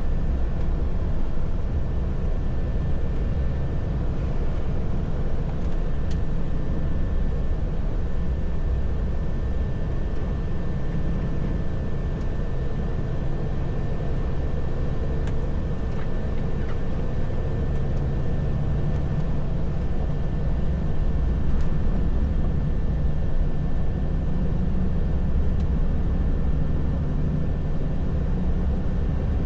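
Heavy truck's diesel engine and road noise heard from inside the cab while driving: a steady low drone with no change in pace.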